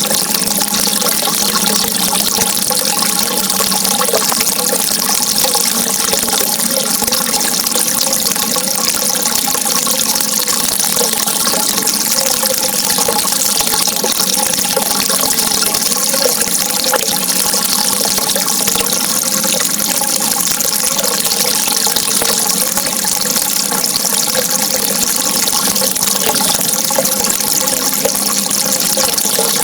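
Steady, unbroken rush of flowing water, even in loudness throughout.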